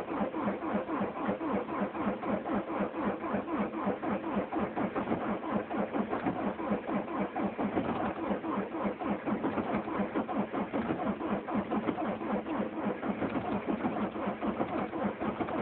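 HDi common-rail diesel engine cranking on the starter motor in an even, rapid beat without firing. This is a failed cold start at about -18 °C.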